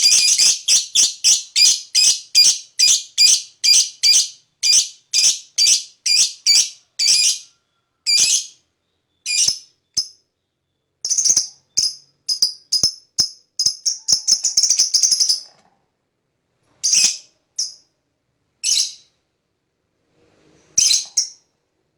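Lovebird calling: a fast run of harsh, high chirps, about three a second for the first seven seconds. Scattered single calls and a dense stretch of rapid chattering follow in the middle, then short silences between a few last calls.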